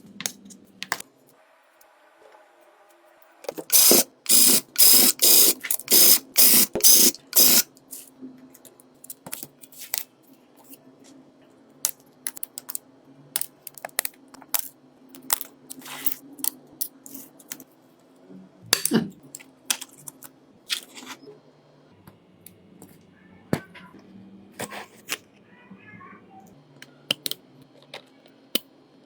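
Hard small parts and repair tools clicking and tapping: a quick run of about eight loud taps a few seconds in, then scattered single clicks over a faint steady hum.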